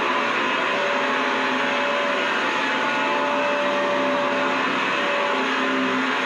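Vacuum cleaner running steadily: an even, unchanging rush of motor and airflow noise with a few faint steady whining tones in it.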